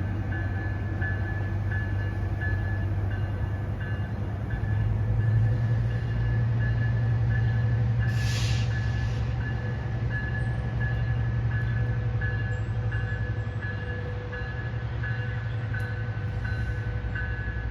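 Train rumbling with a steady low diesel drone, while a railroad crossing bell dings evenly about one and a half times a second; a brief hiss about eight seconds in.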